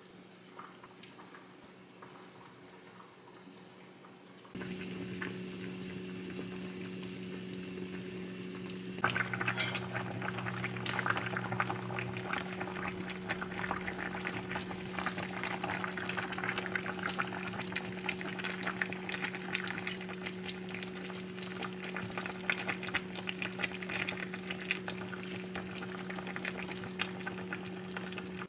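Food frying and sizzling in a hot pan, a dense crackle that starts about nine seconds in and carries on steadily. Under it, a steady low electrical hum switches on about four seconds in.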